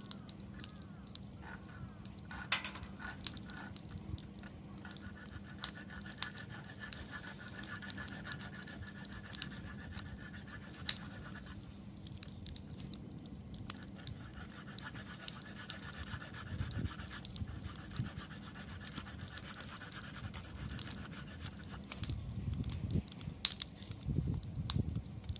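Wood fire crackling with scattered sharp pops, and for long stretches a thin, steady whistling hiss, like steam escaping from damp logs.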